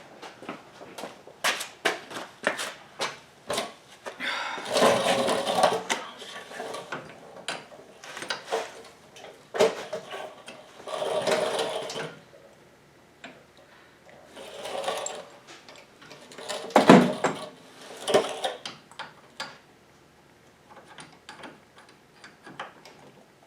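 Hand-tool work on the buggy's front-end metal parts: a run of sharp clicks and clanks, broken by four louder, rapid mechanical bursts of a second or two each.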